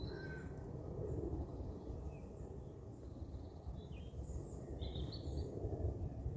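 Outdoor ambience: a steady low rumble with a few short, scattered bird chirps over it.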